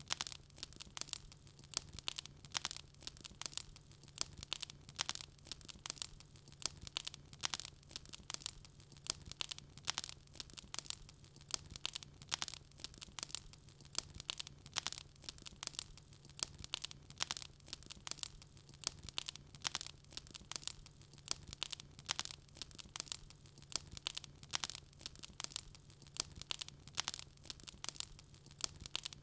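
Wood fire crackling: dense, irregular sharp pops and snaps several times a second, over a faint steady low hum.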